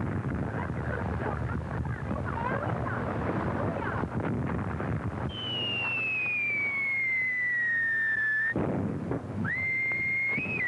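Artillery shell sound effect on an old film soundtrack: a whistle falling steadily in pitch for about three seconds, cut off by an explosion. A second shell's whistle begins about a second later. Before it, a noisy crackling rumble.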